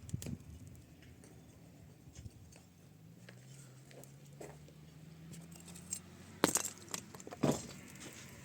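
Scattered light clicks and rattles, with two sharp knocks about a second apart near the end.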